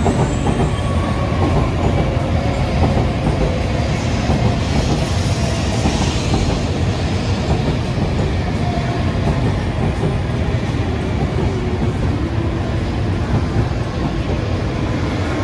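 N700A Shinkansen train rolling past close by: a steady rumble of wheels on rail with a faint wavering whine.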